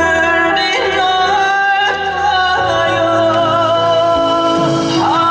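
A song with instrumental accompaniment, a singer holding long, wavering notes over steady backing chords.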